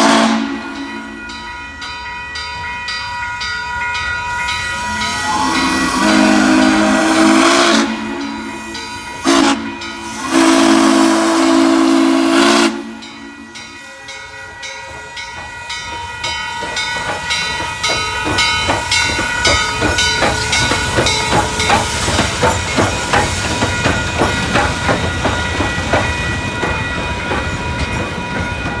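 Articulated 2-6-6-2 steam locomotive #1309 standing with steam hissing, then its steam whistle blows a long blast, a short one and another long one. After that the exhaust starts up in even chuffs that grow louder and quicker as the locomotive gets its train moving.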